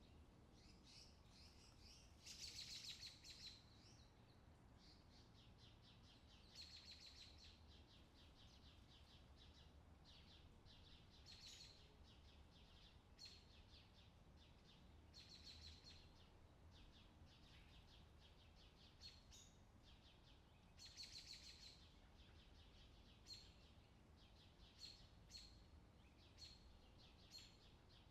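Faint birdsong from a summer outdoor ambience recording: short trilling bird calls recur every few seconds, over a low steady background rumble.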